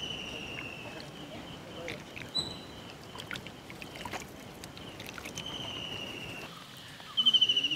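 A bird calling with short descending whistles, three times, the last one near the end loud and trilled. A few light clinks of a steel ladle against the steel cooking pot.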